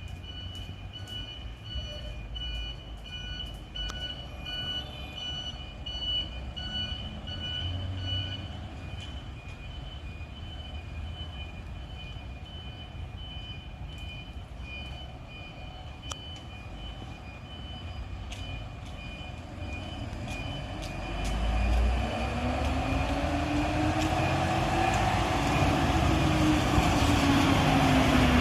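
Garbage truck at a collection stop. For the first eight seconds or so, rapid high-pitched warning beeps repeat over the truck's running. Then, from about twenty seconds in, the compactor mechanism works louder and louder, its pitch rising and then falling.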